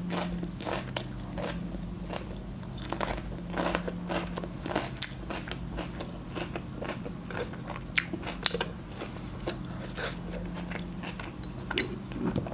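A person chewing and biting grilled chicken close to the microphone: irregular crunching and wet mouth clicks, with a few sharper crunches partway through.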